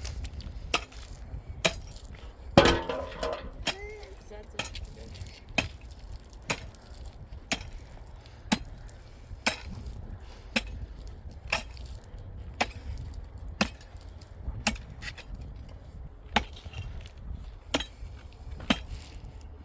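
Repeated sharp knocks, about one a second, of something being struck. About three seconds in there is a louder, longer burst with a voice in it.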